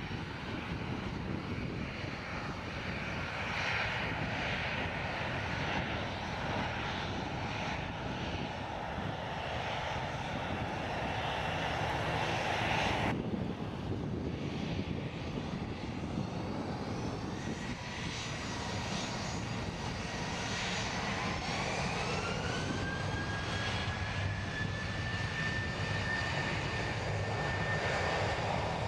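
Boeing 737-800 jet engines running with a steady rumble. About two-thirds of the way through, a whine rises in pitch and then holds high as the engines spool up toward take-off thrust.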